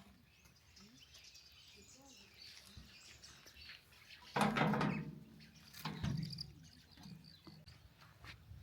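Birds chirping faintly, with a short louder sound about four and a half seconds in and a smaller one about a second and a half later.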